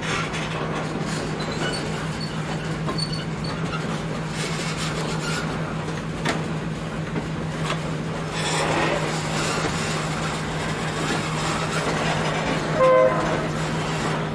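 Moving diesel-hauled train heard from an open car: steady low drone and running noise of the wheels on the track. About a second before the end comes a short, loud toot of the locomotive's horn.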